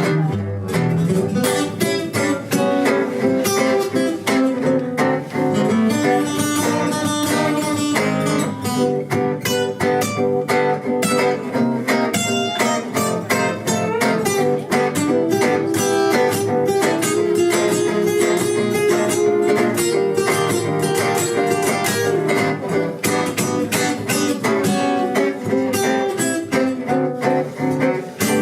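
Instrumental passage of a song led by acoustic guitar, plucked and strummed, with no singing.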